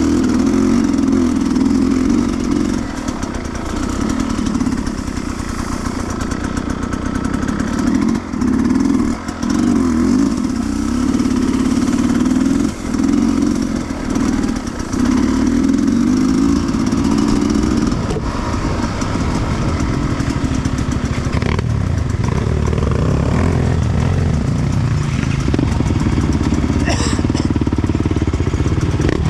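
Sherco 300cc two-stroke enduro motorcycle engine running under varying throttle, its pitch rising and falling, with several short dips where the throttle is cut in the first half. In the last third it settles to a lower, steadier note.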